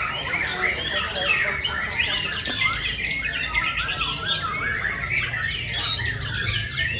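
Many birds chirping and squawking at once, their short calls overlapping densely, over a low steady hum.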